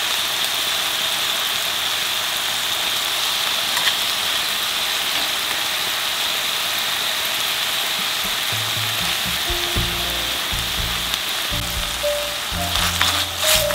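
Beef brisket slices and cubed radish kimchi sizzling steadily in hot oil in a frying pan. Soft background music comes in about two-thirds of the way through, and a few light utensil clicks sound near the end.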